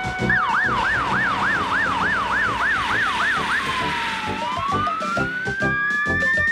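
Fire engine siren, wailing fast up and down about three times a second. Near the middle it drops and turns into one slow rising wail.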